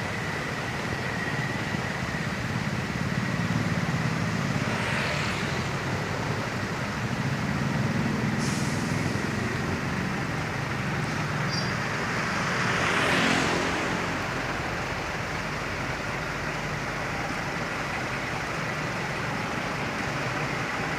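Trucks driving past on a road: a steady low engine drone, with the rush of passing vehicles swelling twice, loudest a little past the middle, and a short sharp hiss in between.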